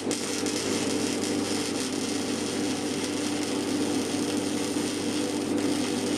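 MIG welding arc from an inverter semi-automatic welder, a steady dense crackle with a low hum under it.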